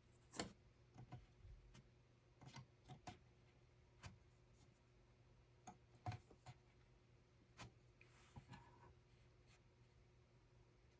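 Faint, irregular small clicks and light taps, a dozen or so spread unevenly, over a low steady hum.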